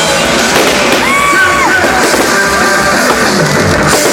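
Loud live rock music, with a voice holding long notes that bend at their ends.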